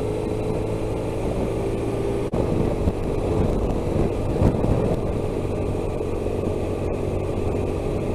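Motorcycle engine running steadily while riding, with road and wind noise; the engine sound dips briefly a little over two seconds in.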